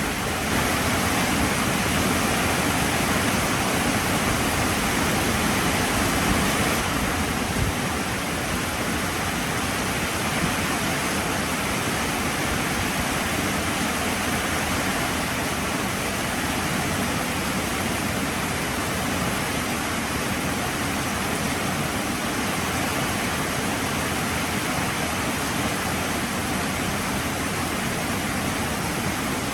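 Heavy rain falling steadily, a dense even hiss, a little louder for the first seven seconds or so.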